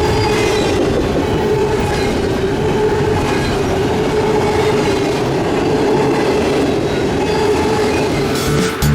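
A train's cars rolling past on the rails: a steady, loud rumble with a steady tone running over it, which cuts off near the end.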